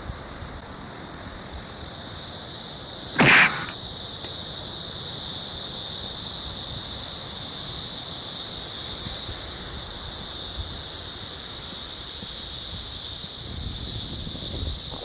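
Chorus of cicadas: a steady, high, shrill buzz that grows a little louder after the first couple of seconds. About three seconds in there is a brief loud rush of noise, the loudest moment.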